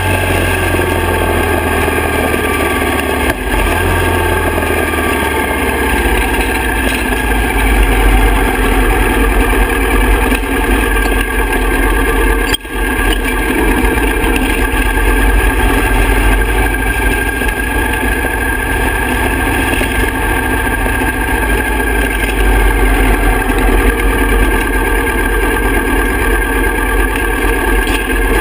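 Harley-Davidson Softail's V-twin engine running at low speed, steady, with a few changes in engine note in the first few seconds.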